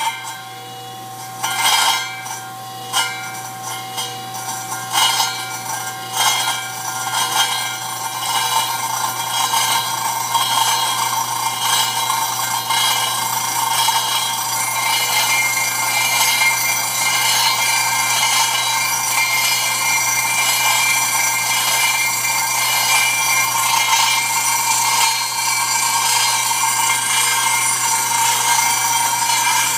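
Double-disk grinder rough-grinding stone flatstones. Sharp knocks and clatter come in the first several seconds, then a steady grinding rasp with a high ringing tone that grows slightly louder.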